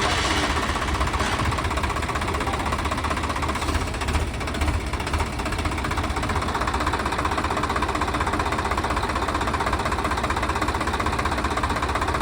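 Swaraj tractor's diesel engine running with a steady, rapid low rumble, easing slightly for a moment about four seconds in.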